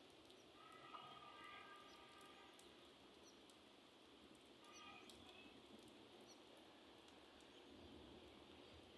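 Faint, steady rain with scattered light ticks of drops. A brief pitched call sounds about a second in and again about five seconds in.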